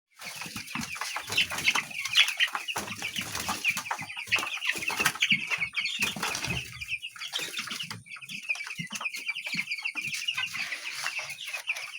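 A pen full of two-week-old chicks peeping continuously, many overlapping short high cheeps, with some wings flapping.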